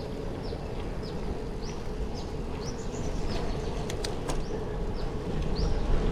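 Birds chirping in short sweeping calls, about two a second, over a steady low rumble, with a few sharp clicks about four seconds in.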